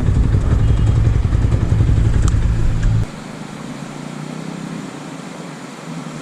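Small 250 cc motorcycle engine idling steadily, then switched off about three seconds in, cutting out suddenly.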